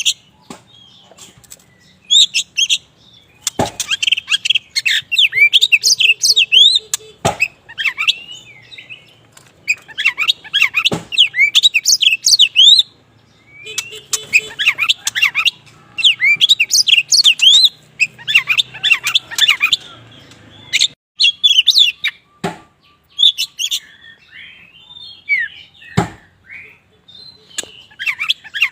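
Kacer wulung (black Javan oriental magpie-robin) singing vigorously in repeated bursts of rapid whistled and chirping phrases, with short pauses between bursts. A few sharp clicks are heard among the phrases.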